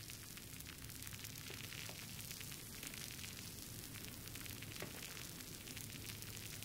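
Fireplace wood fire crackling steadily: a dense stream of small crackles with a few sharper pops, over a low steady hum.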